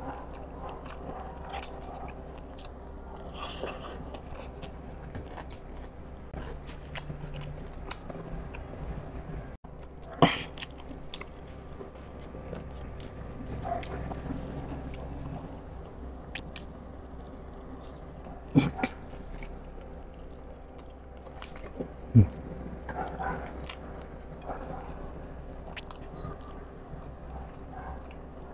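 A man chewing and biting mouthfuls of balut and fried calamares, with scattered small clicks and several sharp knocks, the loudest three coming about a third, two thirds and three quarters of the way through.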